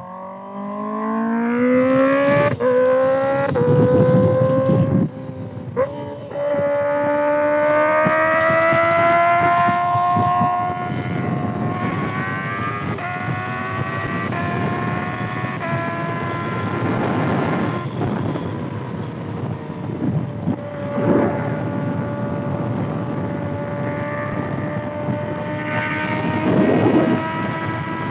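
2025 Kawasaki ZX-6R's 636 cc inline-four with a loud aftermarket exhaust accelerating hard through the gears. The revs climb and drop back at upshifts about two and a half, five and ten seconds in, then hold fairly steady at cruising speed, with a few brief rushes of wind noise.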